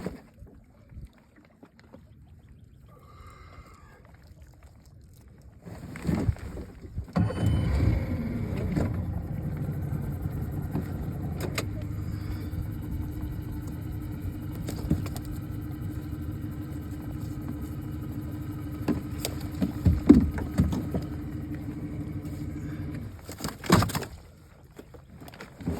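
A boat motor starts about seven seconds in, runs at a steady idle, and shuts off a few seconds before the end, followed by a sharp knock.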